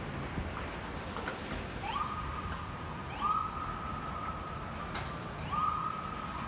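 Steady wind noise with a siren in the distance: three times, starting about two seconds in, its tone rises quickly and then holds level for about a second. A few sharp clicks sound over it.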